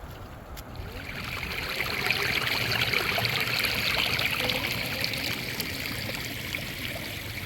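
Running water trickling and splashing. It comes up about a second in, is loudest midway, and eases off toward the end.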